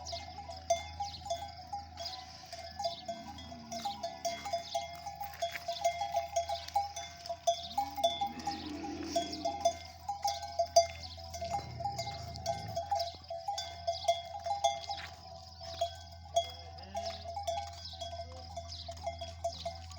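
Bells on walking camels clinking and jangling irregularly with each step, as a string of camels moves along. An animal calls briefly a couple of times in the middle.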